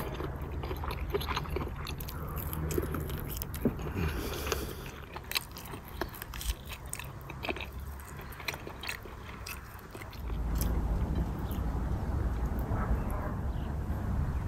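A man biting and chewing tandoor-fried lamb rib meat close to the microphone, with many small wet clicks and smacks. About ten seconds in, a low steady rumble comes up under the chewing.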